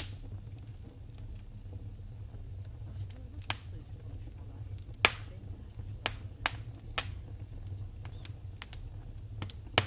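Wood fire in a fireplace crackling, with about six sharp pops at irregular intervals, the loudest about five seconds in, over a low steady hum.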